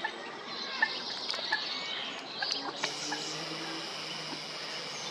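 Short, high bird peeps and chirps, scattered and irregular, over a steady outdoor hiss.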